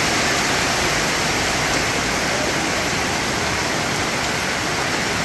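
Heavy rain pouring down, a dense steady hiss, heard from under an umbrella.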